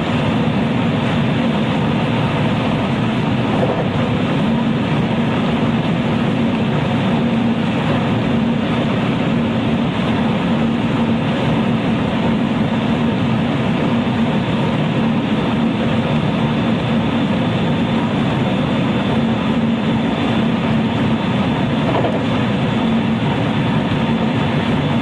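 Running sound heard inside a JR West 223 series electric multiple unit motor car (KuMoHa 223-3016) travelling at a steady pace: an even rumble of wheels on rail and running gear, with a faint steady high tone above it.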